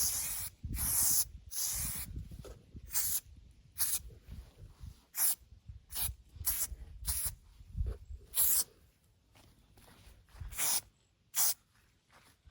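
Montana spray paint can spraying in short bursts of hiss, about a dozen in quick succession, a longer one near the start, with low wind rumble on the microphone between them.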